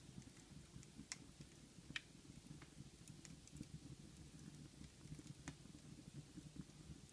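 Wood fire crackling in a fireplace: a low fluttering of flames with a few sharp, scattered pops, the loudest about two seconds in.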